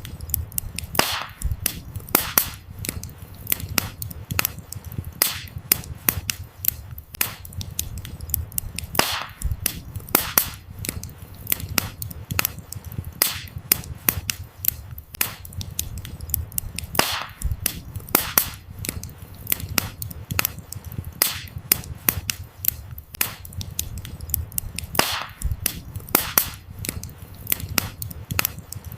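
Burning firewood crackling, with irregular sharp snaps and pops over a steady low rumble of the flames.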